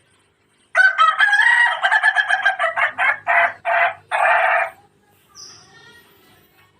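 Rooster crowing once, starting about a second in: a long held call that breaks into a few short pulses and ends after about four seconds.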